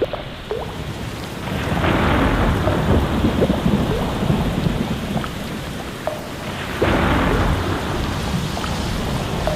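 Steady heavy rain with thunder rumbling, swelling louder twice: about two seconds in and again about seven seconds in.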